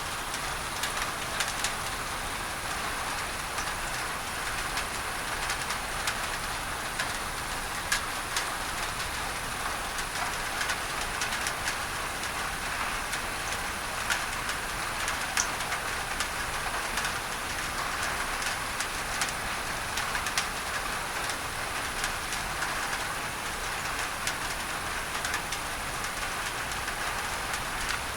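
Rain on a tin roof layered with steady pink masking noise: an even hiss dotted with many sharp ticks of single drops.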